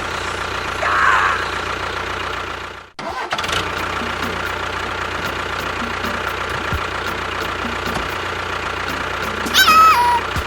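A small motor running steadily, as on a toy or mini tractor, cutting out for a moment about three seconds in and then running again. A short, high voice-like call comes about a second in and again near the end.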